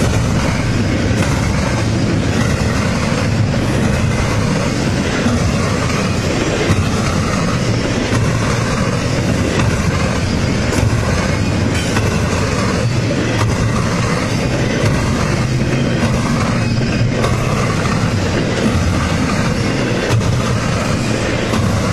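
Freight train cars rolling past at close range, a steady rumble of steel wheels on rail with scattered clicks as the wheels cross rail joints.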